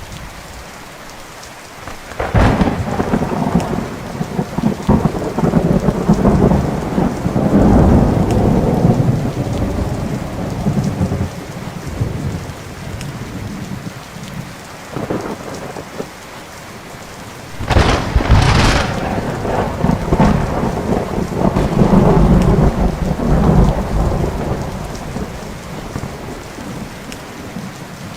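Thunderstorm: steady rain with two long peals of thunder, the first rolling in about two seconds in, the second opening with a sharp crack a little past the middle and rumbling on for several seconds before fading.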